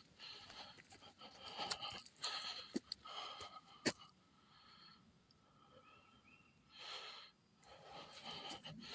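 A man breathing heavily, out of breath from hiking, with a few rhythmic breaths, a quieter pause, then another breath. Two sharp clicks come about three and four seconds in.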